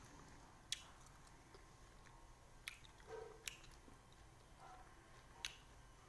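Faint mouth sounds of someone chewing a lime, with four sharp wet clicks spread through it.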